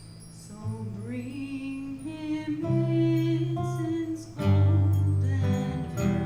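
A small live band playing, with singing and guitar. The held notes swell louder about four seconds in.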